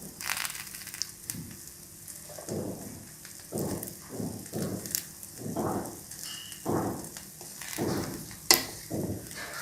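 Rice paper with egg frying in an oiled pan, sizzling steadily, while a utensil works at it in short strokes about once a second. One sharp click comes near the end.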